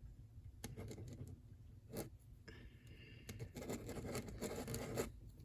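Faint scratchy strokes of a drawing tool on paper, with scattered small ticks, becoming quicker and more continuous in the second half, as in colouring in a drawing.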